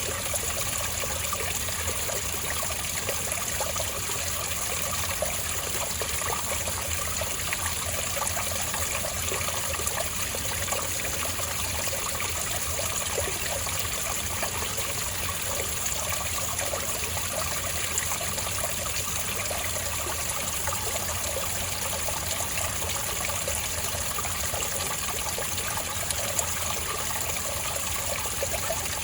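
Spring water trickling and bubbling in a steady, continuous flow.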